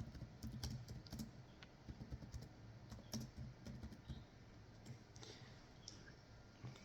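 Faint typing on a keyboard: irregular key clicks, coming quickly for the first few seconds and then thinning out.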